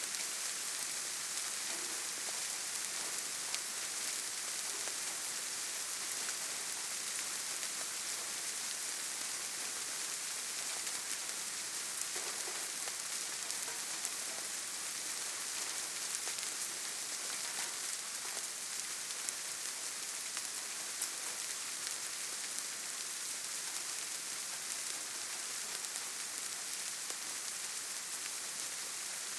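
Steady forest rain: an even, bright hiss of rainfall with scattered single drops ticking through it.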